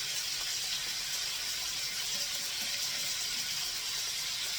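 Chicken breasts frying in olive oil in a skillet, sizzling steadily.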